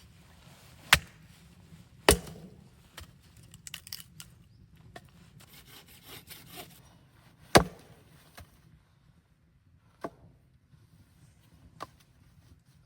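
Wood being chopped: three loud, sharp woody blows, about one, two and seven and a half seconds in, then two lighter knocks near the end, with small crackles and snaps between.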